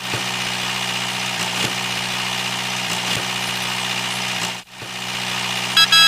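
Tractor engine idling steadily, a low even hum that drops out for a moment about four and a half seconds in. A few short electronic tones sound near the end.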